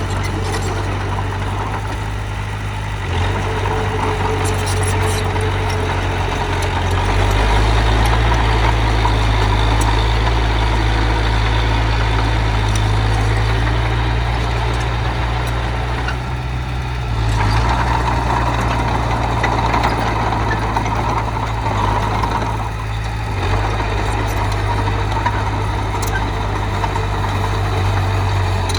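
Heavy machine's diesel engine running steadily, its engine note shifting several times as the load or throttle changes, with mechanical clatter over it.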